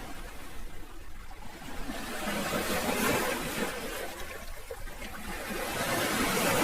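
Sea waves washing in: the surf swells and falls back twice, once around the middle and again near the end.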